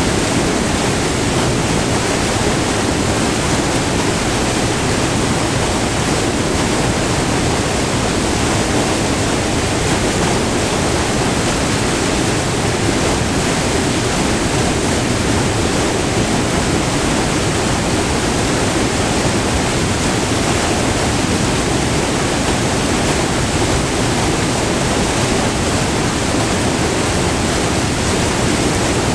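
Close-up white water pouring over a short, multi-tiered river waterfall: a loud, steady rushing.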